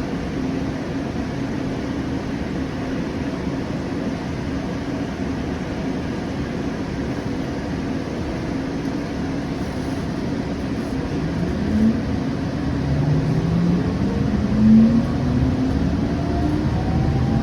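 Siemens S700 light rail train running with a steady rumble of wheels on rail. From about twelve seconds in, a rising whine from the traction motors joins it as the train picks up speed.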